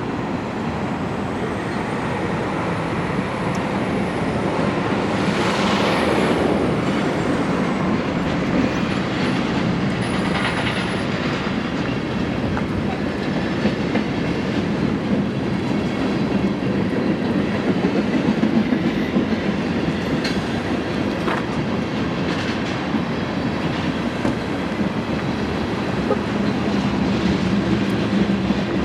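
Passing train: a steady rumble and rattle of rolling railcars, with a thin high squeal that rises and then falls over the first several seconds.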